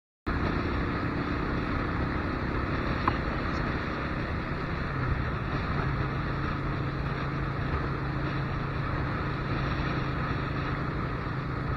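Motorcycle running at a steady cruise with wind rushing over the microphone; the sound cuts in abruptly just after the start and holds steady throughout.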